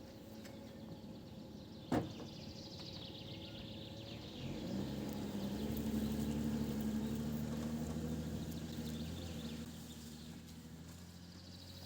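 Birds singing, with a single sharp click about two seconds in. About four seconds in, the low hum of a distant engine swells, holds, then fades away near the end.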